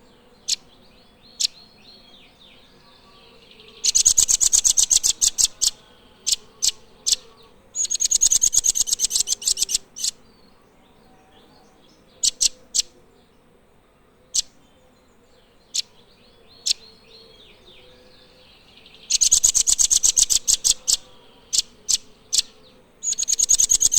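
Nuthatch song: four fast, high trills of sharp repeated notes, each lasting one to two seconds, with single sharp chip notes in between.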